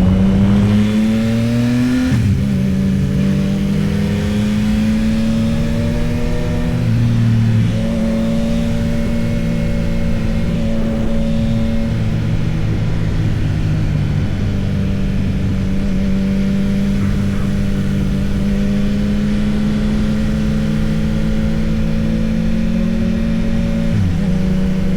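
Yamaha XSR900's inline three-cylinder engine under way. The revs climb and drop at a gear change about two seconds in, step again near eight seconds, then hold steady at cruise, with a brief dip near the end.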